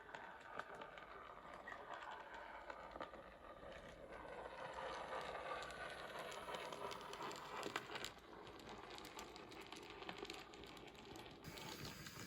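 N gauge model train running on its track: a faint rolling rumble with scattered clicks from the wheels.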